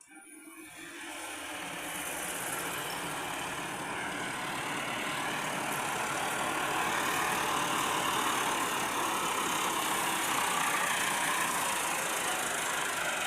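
Tractor diesel engine running steadily, building up over the first couple of seconds and then holding.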